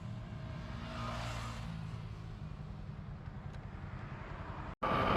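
Yamaha R15 V4's 155 cc single-cylinder engine running at a steady cruise, with wind rushing over the microphone. Near the end the sound cuts out for an instant and gives way to a louder, steady hum.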